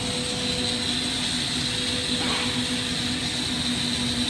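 Steady roar of a glassworking torch flame in a hot shop, with a constant hum beneath it.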